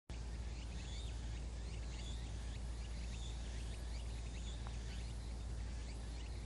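Outdoor golf course ambience: birds chirping in short, repeated calls over a steady low rumble.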